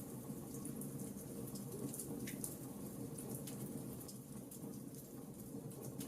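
Wood fire burning, with a steady low rush of flames and frequent irregular sharp crackles and pops from the burning logs.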